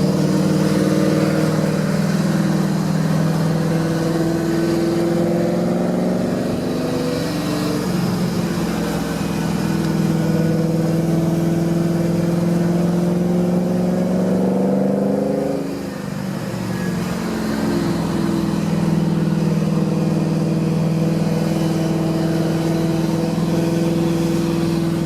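Cammed Holden VX Commodore SS 5.7-litre V8 running under steady load on a climb, its note drifting slowly up and down. About 15 seconds in the note falls and briefly dips, then settles back to a steady pull.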